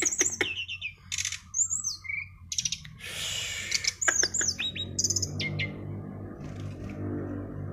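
Brown-chested jungle flycatcher (sikatan rimba dada coklat) singing: a fast, varied run of buzzy notes, quick clicks and high whistled slurs. From about five seconds in, a low steady hum sits underneath.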